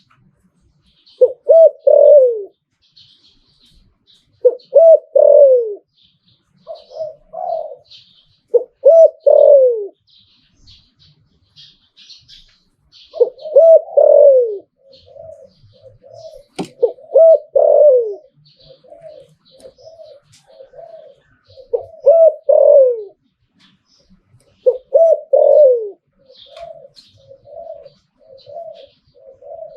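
Spotted dove cooing: repeated phrases of low coos, each a few quick notes ending in a falling note, with strings of short rapid coos between phrases in the second half. Faint high chirps of other small birds, and one sharp click about two-thirds through.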